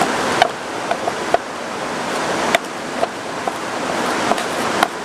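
Steady heavy rain hissing, with a pestle knocking sharply and irregularly in a mortar, about ten strikes, as chillies and shrimp paste are pounded into sambal terasi.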